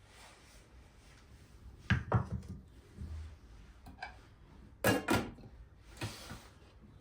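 Household objects being handled: a cluster of sharp knocks about two seconds in, a louder double knock about five seconds in, and single taps between, with soft rustling near the start and near the end.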